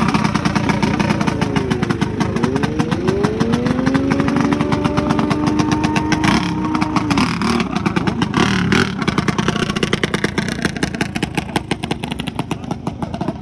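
Small mini bike engines idling with a rapid firing rhythm while one is revved: its pitch dips, climbs and holds for a few seconds, then drops back about seven seconds in.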